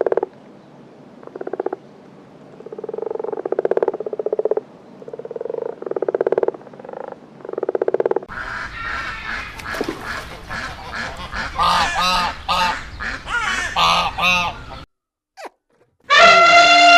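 Animal calls from several animals in turn. First comes a run of low, evenly pulsed calls for about eight seconds, then a busier stretch of harsher calls that stops suddenly about fifteen seconds in. Near the end there is a long call that falls in pitch.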